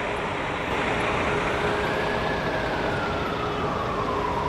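Emergency vehicle siren sounding one slow wail, rising over the first two seconds and falling through the rest, over steady street traffic noise.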